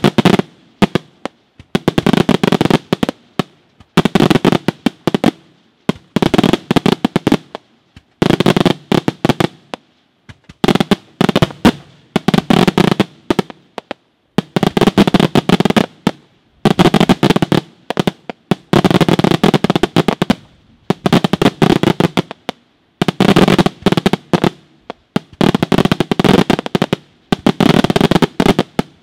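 Daytime aerial fireworks: shells bursting into clusters of many small rapid bangs. Each volley of crackling reports lasts a second or two, and they follow one another every two seconds or so with brief gaps.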